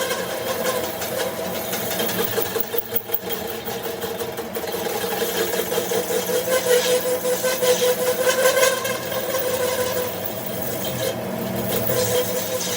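A motor-driven machine running steadily with a fast, even pulsing, its pitch holding level throughout.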